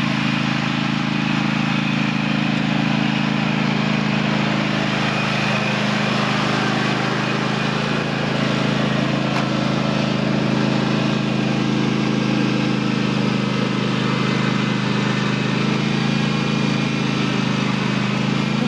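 Small vehicle engine running steadily at a constant speed while towing a drag leveler through top-dressing soil.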